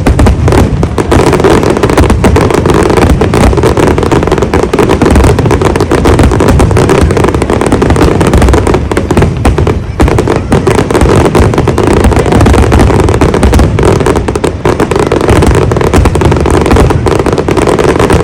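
Large fireworks display going off in a dense, unbroken barrage of booming shell bursts and crackle, very loud throughout.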